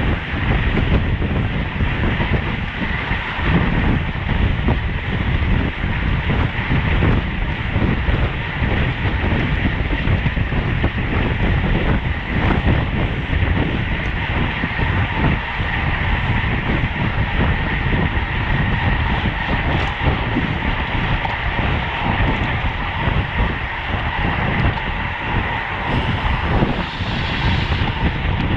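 Steady wind rush on the microphone and road rumble from a racing bicycle ridden at speed, with no break.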